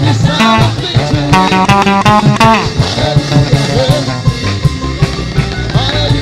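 Upbeat gospel band music between sung lines: a guitar plays a run of plucked notes over bass and a steady drum beat.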